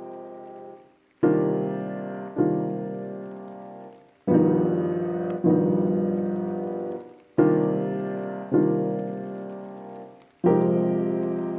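Slow solo piano music: full chords struck every one to two seconds, each left to ring and fade before the next.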